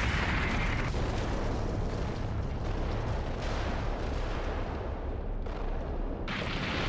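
Anime battle sound effects: a continuous deep rumbling blast. A hissing upper layer drops away about a second in and comes back near the end.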